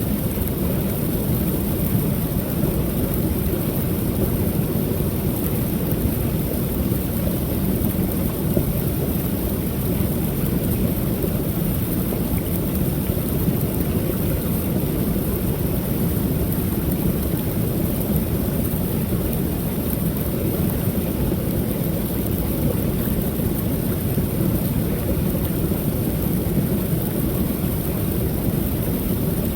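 Creek waterfall pouring steadily: a constant, deep rush of falling water with no breaks.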